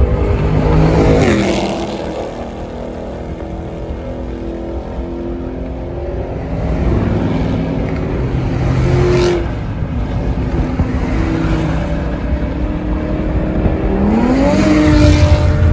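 Car engines running and being revved in short bursts, with rising rev sweeps about a second in, around nine seconds in and near the end.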